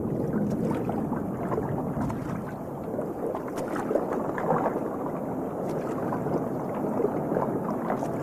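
Water splashing and churning: an uneven, continuous rush with scattered small clicks.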